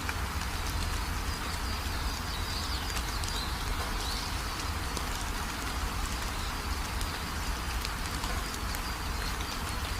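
Steady rain falling, with scattered drops ticking on surfaces, a deep low rumble underneath and faint high chirps running through it.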